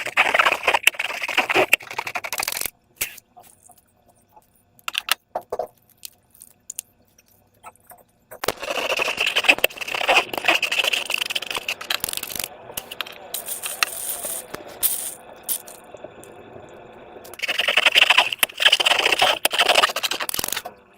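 Slime being squished and worked by hand, giving dense wet crackling and clicking in three long bursts with quieter pauses and scattered single clicks between them.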